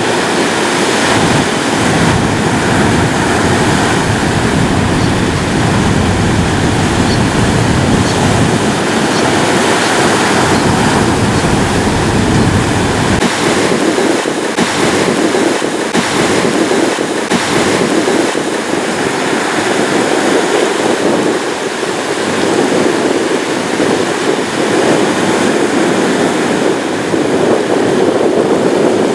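Ocean surf: a continuous wash of breaking waves. The deep low rumble drops away abruptly about halfway through, leaving a lighter wash.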